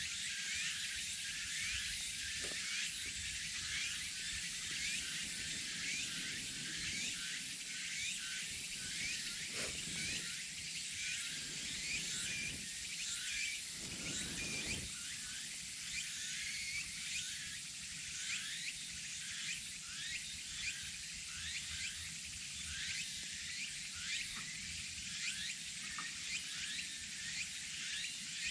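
Mountain forest ambience: a steady, dense high-pitched chorus of many short falling chirps from wild animals. A brief low rush swells and fades about halfway through.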